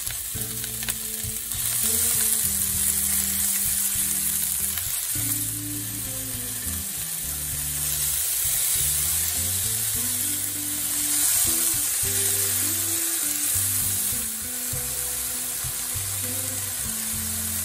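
Diced onions and peppers sizzling in hot olive oil in a stainless steel pan, with a silicone spoon stirring and tipping in more vegetables. Soft background music with low sustained notes plays underneath.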